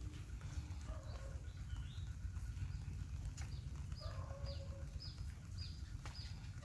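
A bird repeats a short, high, falling chirp about twice a second from midway on, over a steady low rumble. A lower drawn-out call comes twice.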